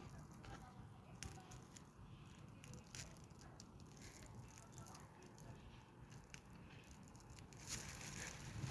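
Faint wind on the microphone: a low steady rumble with scattered small clicks, and a louder rush of hiss rising near the end.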